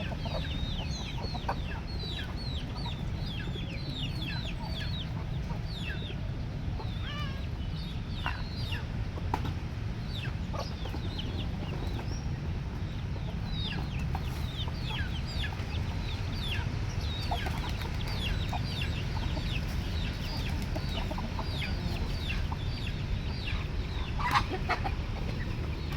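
Many small birds chirping continuously in short, high, falling peeps over a steady low rumble, with one sharp click about 24 seconds in.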